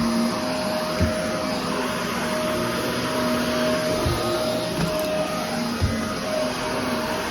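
Vacuum cleaner running steadily, with a constant whine over its motor noise and a few dull knocks.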